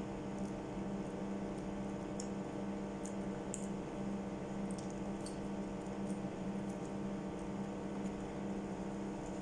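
A person chewing a chicken hamburger close to the microphone: soft wet mouth clicks and smacks, about one or two a second, over a steady electrical hum.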